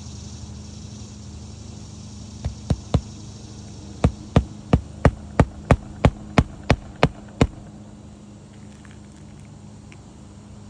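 Sharp knocks on the roof, most likely hammer blows: three strikes, then a steady run of about eleven at roughly three a second, over a steady low hum.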